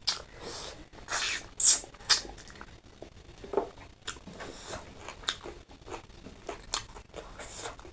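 Close-miked eating: loud crunchy bites and chewing, with a cluster of sharp crunches in the first two seconds, the loudest near two seconds in, then softer chewing clicks.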